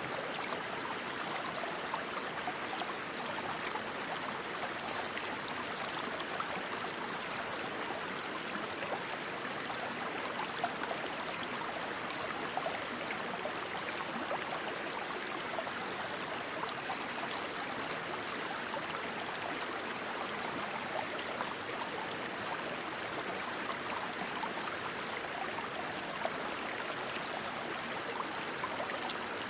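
Rushing water of a stream flowing steadily. Short high chirps sound over it a few at a time, with two brief trills, one about five seconds in and one about twenty seconds in.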